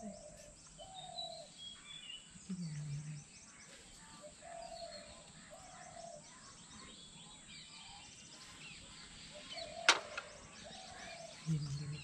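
Birds calling in the morning: a short two-note low call repeats several times over a background of quick high chirps. A single sharp click sounds about ten seconds in.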